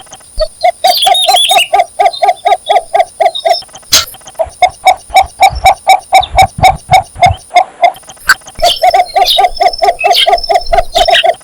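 Cinnamon bittern giving its mating call: three runs of rapid, low clucking notes, about five a second, each run lasting a few seconds. Brief higher chirps come in about a second in.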